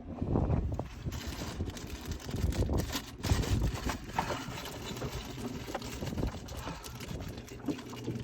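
Low gusts of wind buffeting the microphone, with scattered light clicks and knocks as small fishing tackle such as a sinker is handled.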